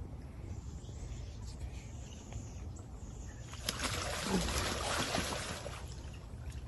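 A sudden burst of splashing water about halfway through, lasting about two seconds, as an alligator lunges out of the water at a bird.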